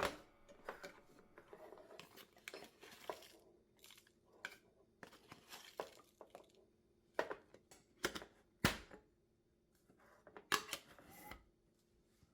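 Quiet handling sounds: packaging crinkling and tearing, with scattered small knocks and clicks.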